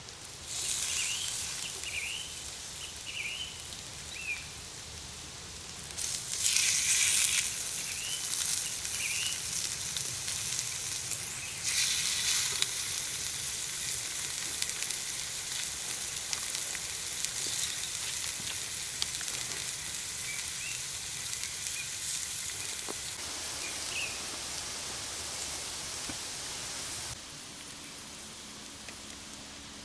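Steak sizzling over a campfire. The sizzle starts suddenly about half a second in, swells louder twice (around six and twelve seconds in) and cuts off a few seconds before the end.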